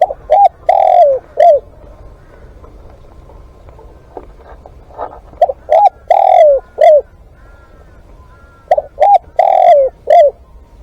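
Spotted dove cooing: three repeated calls, each a four-note phrase of two short coos, a longer drawn-out coo, and a short final coo, spaced about four seconds apart.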